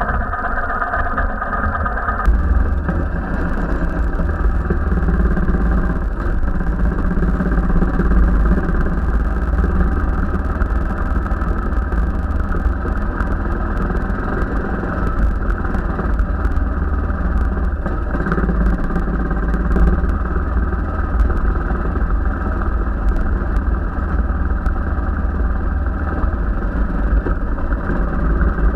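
Royal Enfield Himalayan's 411 cc single-cylinder engine running steadily as the motorcycle is ridden along a dirt trail. The engine note changes about two seconds in, and scattered knocks and clatter sound throughout.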